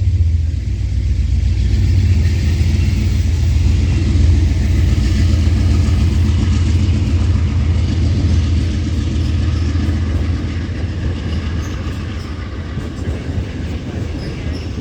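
Train rumbling past, a loud steady low rumble that eases off slightly toward the end.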